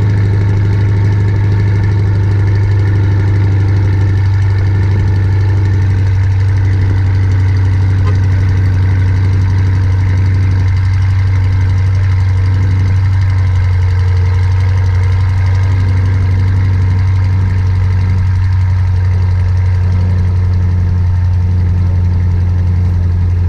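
Chevrolet Corvette V8 engine idling steadily, a loud, even low drone that holds at one pitch throughout.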